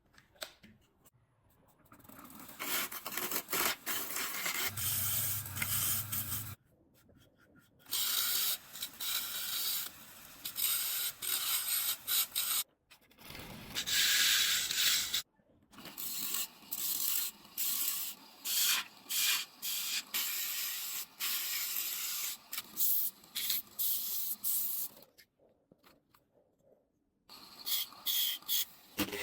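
Woodworking tool sounds: quick, repeated scraping and rubbing strokes on wood, in several short stretches that start and stop abruptly.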